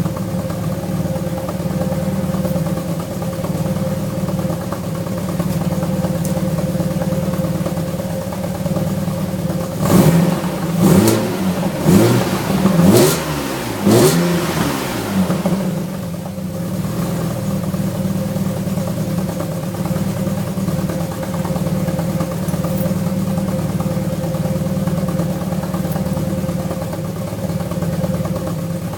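Alfa Romeo V6 idling steadily while warming up after winter storage, blipped five times in quick succession about ten seconds in, each rev rising and falling back, before settling back to idle.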